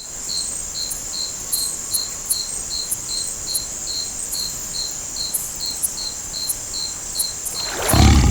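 Crickets chirping in a forest: an even pulse of chirps, about two and a half a second, over a steady high insect drone, with faint scattered ticks above. Near the end a louder low rumble comes in.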